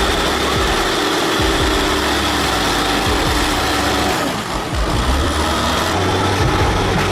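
A heavy tractor engine running loudly with a low rumble. The sound changes abruptly about four seconds in.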